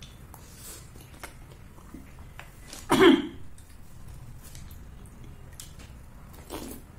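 Close-miked eating of rasmalai, soft milky cheese dumplings in syrup: wet chewing with small mouth clicks and smacks. A louder brief sound about three seconds in and a smaller one near the end.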